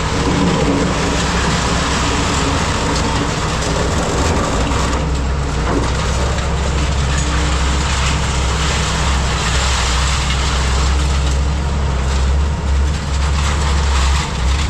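Heavy diesel scrapyard machinery running under load, with metal scraping and clanking as rebar is handled. Its low drone grows stronger about four seconds in.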